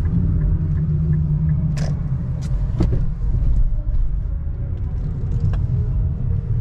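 2017 Infiniti Q50 3.0t on the move, heard from inside the cabin: a steady low rumble of engine and road noise, with a few light clicks and knocks.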